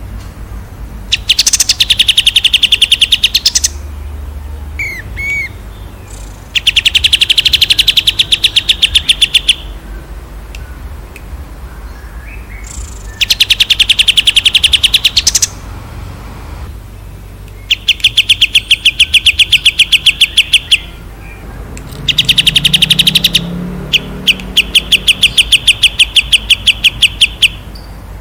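A songbird singing about six long, rapid, high-pitched trills, each two to three seconds long with short pauses between, and a couple of brief chirps in one of the pauses.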